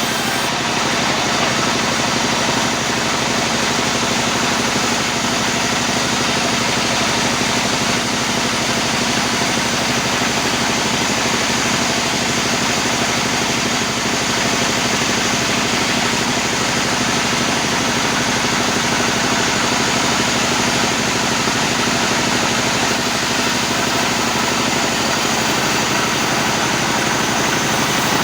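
Sawmill machinery running steadily, a loud even mechanical noise with a faint hum under it and no change in level.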